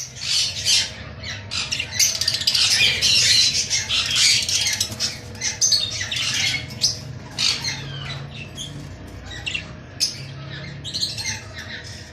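Hagoromo budgerigars chattering and squawking together in a busy stream of short, sharp calls that starts abruptly and thins out over the last few seconds.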